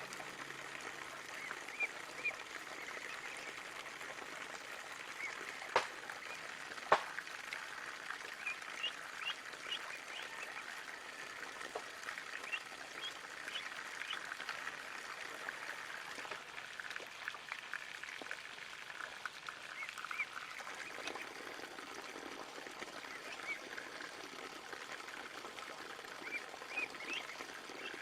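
Ducklings peeping, many short high chirps over and over, over a faint wash of water. Two sharp clicks about a quarter of the way through.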